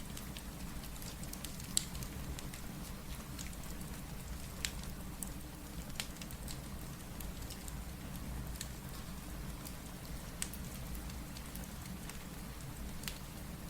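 Steady rain with a low, even hiss, and a crackling wood fire giving occasional sharp pops, about half a dozen, scattered through it.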